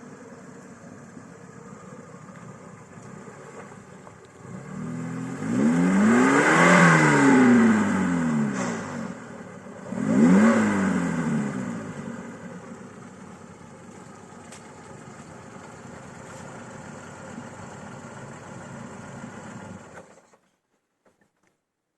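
Lada Niva's four-cylinder engine running, revved up twice: a long rev about five seconds in and a shorter one about ten seconds in, each climbing in pitch and falling back to idle. The sound cuts off suddenly near the end.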